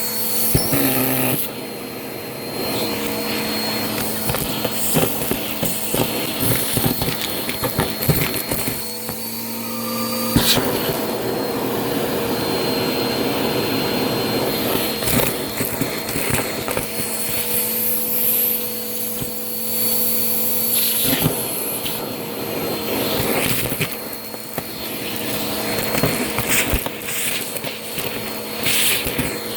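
Vacuum cleaner running steadily with a constant motor whine. Frequent crackling clicks as crunchy debris is sucked up.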